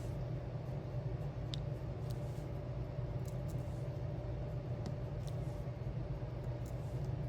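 Faint, light clicks of a diamond-painting pen picking up and pressing down small resin gems, scattered about once a second, over a steady low hum.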